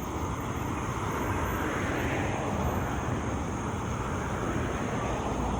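Steady engine noise of passing traffic, swelling slightly about two seconds in.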